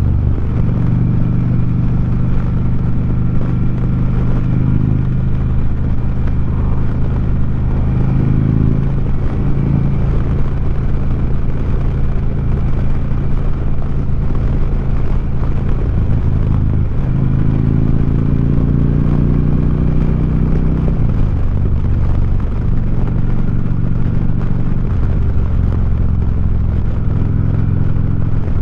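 2009 Harley-Davidson Street Glide's V-twin engine running through 4.5-inch Sharkroad exhaust mufflers while riding, with wind rushing past the microphone. The engine pitch climbs steadily for a few seconds past the middle, then drops as a gear change comes.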